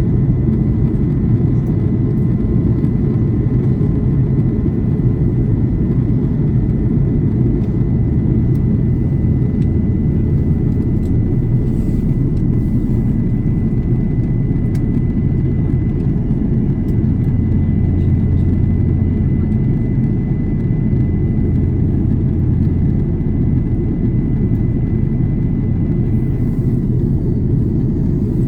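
Airbus A330 cabin noise during descent: a steady rumble of airflow and engines, with a thin, steady high whine above it.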